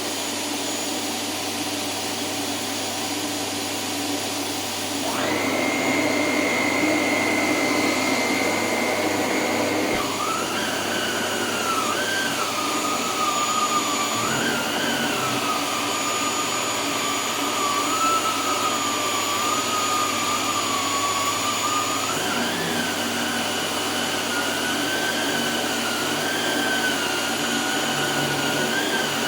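Canister vacuum cleaner running with a separately powered DIY powerhead brush attached. About five seconds in, a steady high whine sets in. At ten seconds it gives way to a lower whine that wavers up and down in pitch for the rest of the time.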